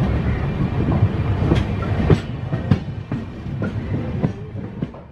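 Electric locomotive running along the track: a steady low rumble with sharp wheel clacks every half second or so over the rail joints, fading away toward the end.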